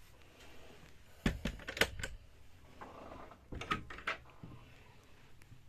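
A few sharp clicks and knocks in two short clusters, about a second in and again about three and a half seconds in, against a quiet room background.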